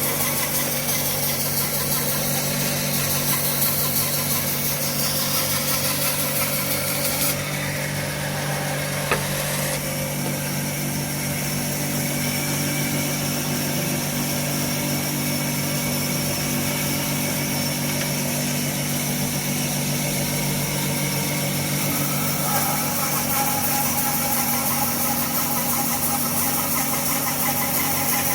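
Woodworking power saw running with a steady motor hum while cutting Brazilian purpleheart. The higher hiss changes about seven and ten seconds in, with a single sharp click in between.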